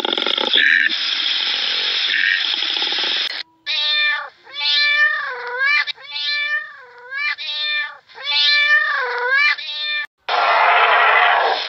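An animal giving four meow-like calls, each rising and then falling in pitch. They follow a few seconds of steady noise and are cut off by steady noise again near the end.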